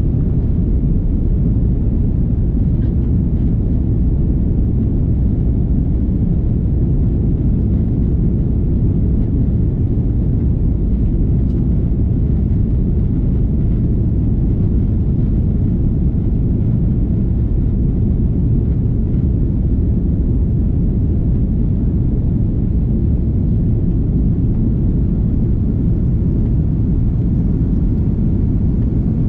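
Steady low rumble of an Airbus A330-300 in flight, heard inside the passenger cabin: engine and airflow noise.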